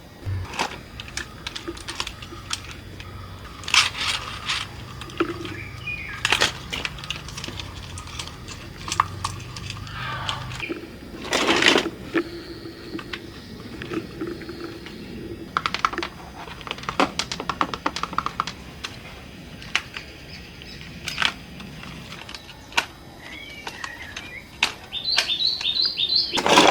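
Irregular clicks and knocks of small plastic and metal toy parts being handled and pried apart, with a low hum for the first ten seconds or so and a denser clatter near the end.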